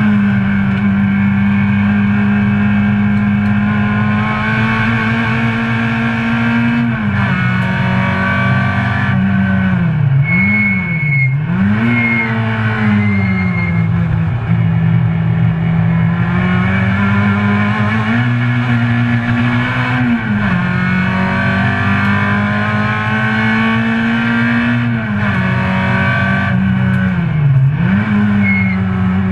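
Citroen C2 GT track car's engine heard from inside the cabin, held at high revs around the circuit. Its pitch drops several times at gear changes, and about ten seconds in it dips and climbs sharply twice, with a brief high squeal.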